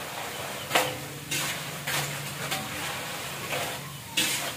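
Krupuk crackers frying in hot oil in a large wok, with a steady sizzle. A long metal spatula scrapes and knocks against the wok a few times as they are turned.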